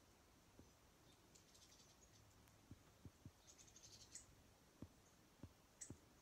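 Faint, quick high chirps from small finches, in two short bursts, with several soft knocks on the ledge in the second half.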